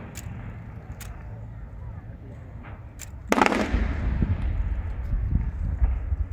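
Fireworks going off: a few faint sharp cracks, then one loud bang about three seconds in that dies away into a low rumble.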